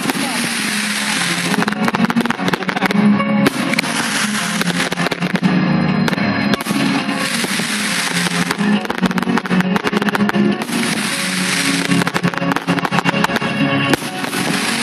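Fireworks going off in clusters of bangs and crackling, over music with guitar.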